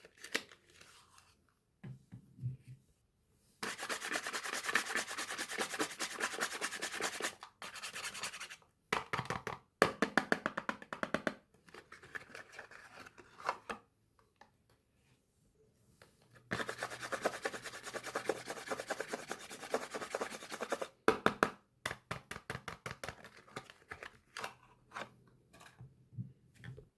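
Soap packaging being unwrapped by hand: rapid scratching and rubbing of the wrappers in two long stretches of several seconds each, with shorter bursts and light taps between them.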